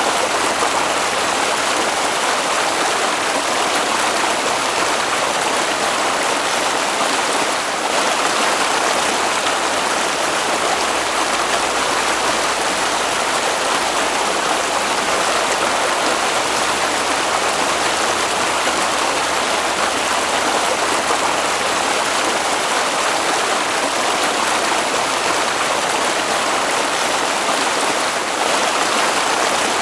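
Water flowing in a stream, a steady, unbroken sound with no breaks or changes.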